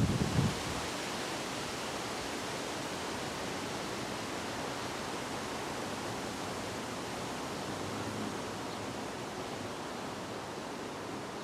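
Steady rushing wind, an even hiss with no rhythm, with a brief low buffet of wind on the microphone in the first half-second.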